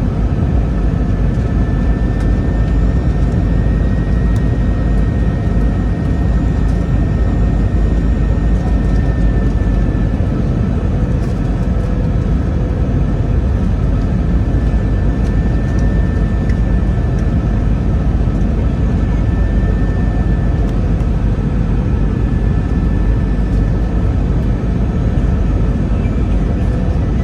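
Steady cabin noise inside an Airbus A321-211 on the approach to landing: a loud, even rumble of engines and airflow, with a faint, steady high whine on top.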